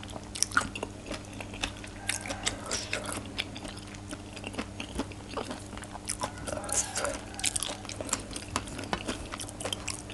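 Close-up chewing of a mouthful of som tam (spicy green papaya salad) with raw shrimp and fresh vegetables: irregular wet crunches and mouth clicks.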